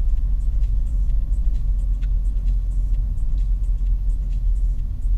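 Steady low rumble of a car driving along at road speed, heard from inside the cabin, with faint light ticks over it.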